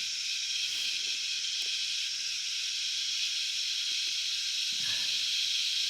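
Loud, continuous chorus of cicadas: a steady, high shrill drone that holds at an even level throughout.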